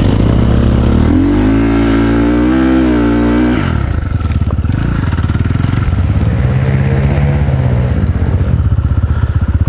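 Enduro motorcycle engine revved up and held high for a couple of seconds, dropping back, then revved again briefly before settling to a lower steady run.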